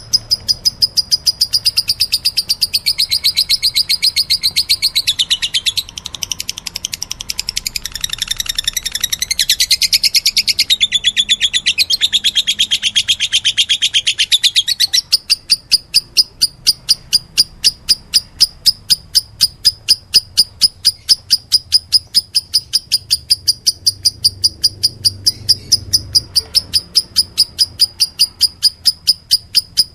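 Lovebirds being fed: rapid, rhythmic high cheeping, about four chirps a second, the begging calls of young birds taking food regurgitated by a parent. For about the first half, a denser, fuller chattering joins in, then cuts off suddenly.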